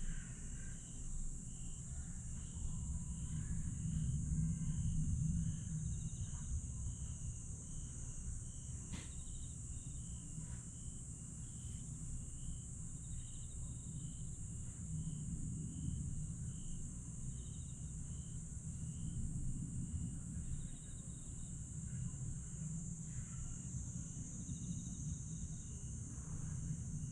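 Night chorus of grass insects: a steady high-pitched shrill with a regular chirp repeating about one and a half times a second, over a low rumble that swells and fades twice.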